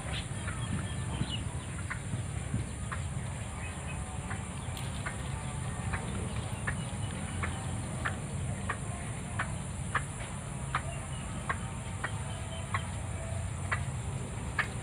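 White-breasted waterhen giving a run of short, sharp call notes, about one and a half a second, over a steady high insect drone.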